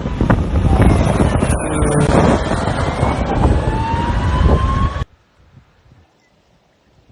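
Loud rumbling engine noise with wind buffeting the microphone and a slowly rising whine, cut off suddenly about five seconds in, leaving only faint background.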